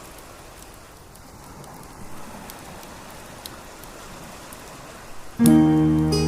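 Wood fire crackling: a soft hiss scattered with sharp pops. About five seconds in, loud music starts suddenly with a sustained chord.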